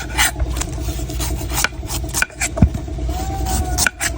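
Knife chopping and shaving a coconut: a quick series of sharp chops and scraping cuts at irregular intervals, over a steady low hum.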